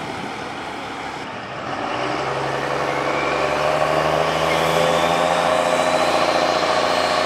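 Turbocharged Cummins diesel of a Dodge Ram drag pickup running, getting louder about two seconds in, with a high whine slowly rising in pitch over it.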